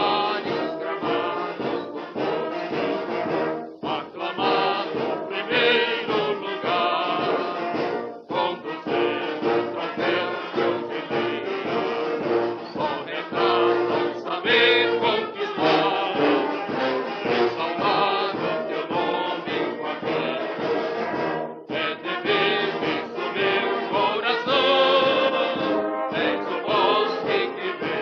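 Instrumental passage of a club anthem led by a brass band, with trumpets and trombones over an orchestral accompaniment.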